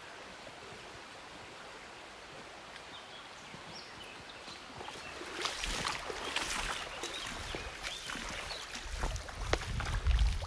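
Steady rush of a mountain river, heard as an even hiss. From about halfway, footsteps and knocks of people walking down steps come in, with low rumbling from wind or handling on the microphone.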